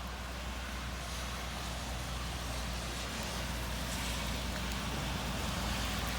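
Steady heavy rain pouring down, an even hiss over a low rumble, growing slightly louder.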